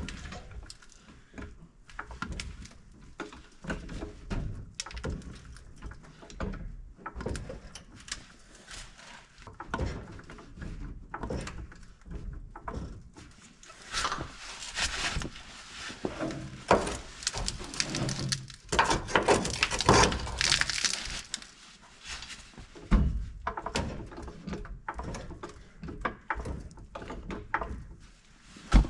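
Irregular knocks, clinks and clatter of hand-tool work on a truck cab mount, with a longer, denser stretch of noisy scraping and rattling about halfway through.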